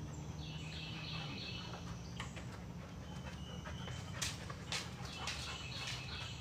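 Birds chirping in short repeated high trills twice, over a steady low hum, with a few sharp clicks in between.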